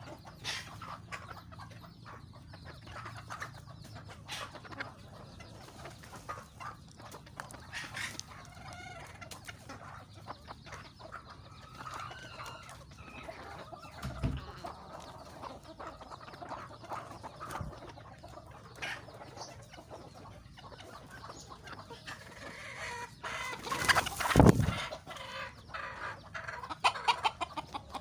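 Domestic chickens clucking, with many small clicks and knocks throughout. About 24 seconds in, a louder, brief burst of noise stands out above the clucking.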